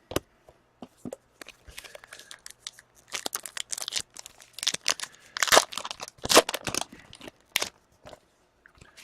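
Plastic O-Pee-Chee hockey card pack wrapper crinkling and tearing in irregular bursts as it is pulled open and handled, loudest a little past the middle.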